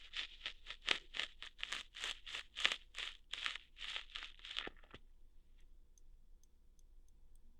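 ASMR ear-hair plucking sounds: a quick, even run of short crackling, tearing strokes, about three or four a second, close to the microphone, which stops about five seconds in, leaving only a few faint ticks.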